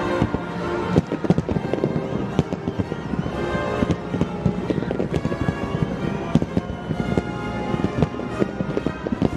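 Fireworks bursting and crackling in many sharp, irregular pops, heard over music.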